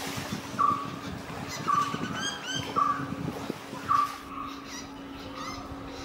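A bird repeating a short call about once a second, with other birds chirping higher in the middle and near the end, over a steady low hum.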